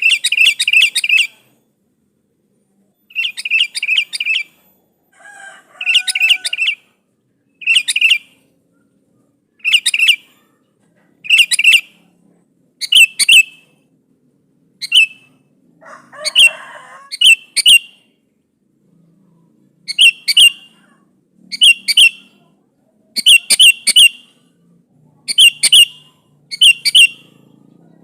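Sooty-headed bulbul (kutilang) calling in short bouts of quick, sharp notes, one bout every second or two: a challenge call to a rival bird.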